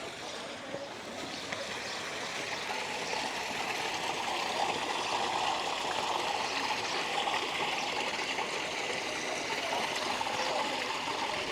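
Running water: a steady rush and trickle, growing a little louder through the first few seconds and then holding.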